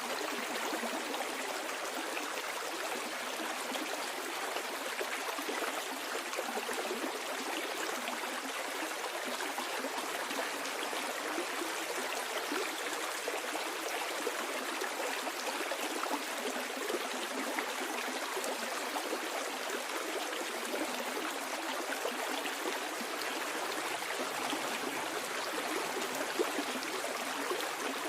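Stream water flowing downhill over stones in a steady, unbroken rush and trickle.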